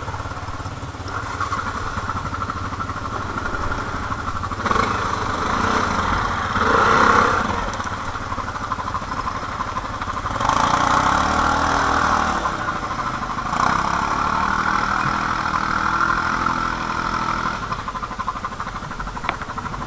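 ATV engine running, rising and swelling three times as the throttle opens, easing back down in between.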